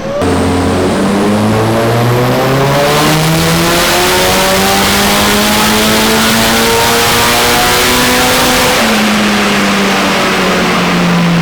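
Nissan Silvia S15's turbocharged SR20DET four-cylinder, tuned on E85 with a bigger turbo, on a dyno pull: the revs climb steeply over the first few seconds, hold high and loud, then drop back near the end.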